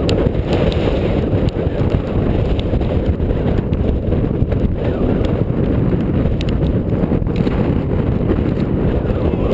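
Wind buffeting the head-mounted GoPro's microphone: a loud, steady low rumble.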